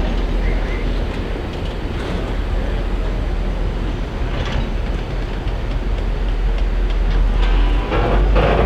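Train rolling on the rails: a steady rumble with a few clanks and rattles, about two seconds in, midway, and louder near the end.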